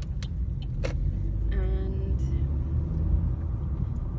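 Steady low road rumble inside a moving car's cabin, with two light clicks in the first second and a brief hum of a voice about a second and a half in.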